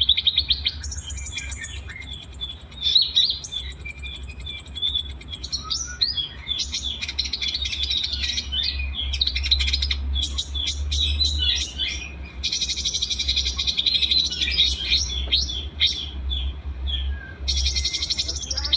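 Masteran recording of several small songbirds singing together: high, clear chirps and rapid trills, with long fast-trilled phrases coming and going, over a steady low hum.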